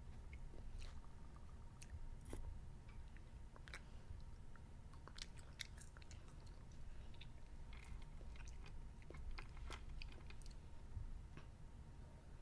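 A child chewing candy, bites of a marshmallow Peep, with many small scattered wet clicks and smacks of the mouth.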